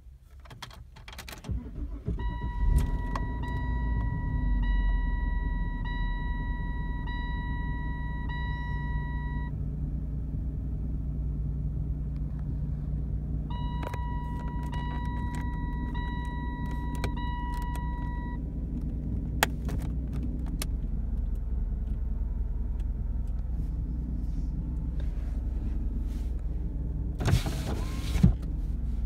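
The 3.0-litre V6 of a 2003 Saturn LW300 wagon starts about two seconds in and then idles steadily, heard from inside the cabin. A warning chime sounds about once a second for several seconds, twice. Near the end, an electric window motor whirs as a window is run.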